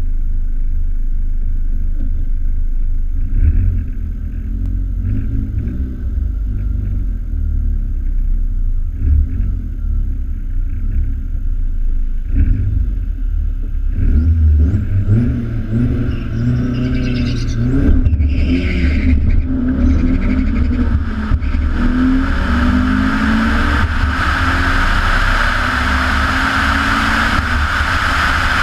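Turbocharged 1.8-litre four-cylinder of a Mk4 VW GTI fitted with a Frankenturbo F21 turbo, idling at the starting line with a few short bursts of throttle. About halfway through it launches on a quarter-mile pass, its pitch climbing in steps through the gear changes, while a rush of wind builds near the end.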